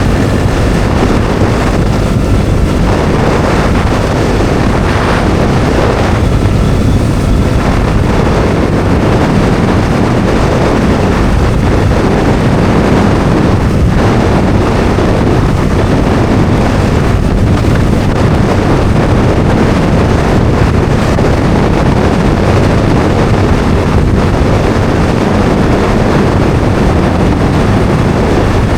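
Bajaj Dominar 400's single-cylinder engine running steadily under way, nearly buried under loud wind rushing over the microphone.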